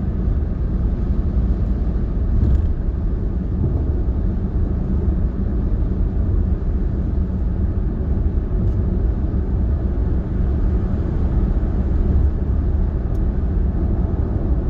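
Steady low road rumble and tyre noise heard inside a moving car.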